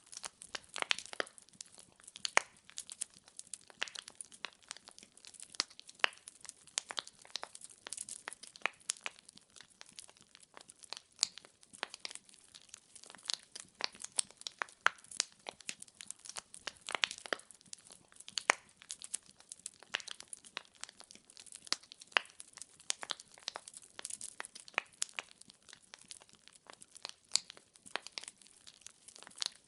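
Wood fire crackling, with many sharp irregular pops and snaps from burning logs over a faint hiss.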